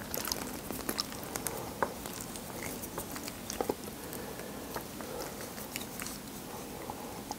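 Close-miked soft chewing of carbonara spaghetti, with a few light, sharp clicks of a metal fork and spoon as the noodles are twirled.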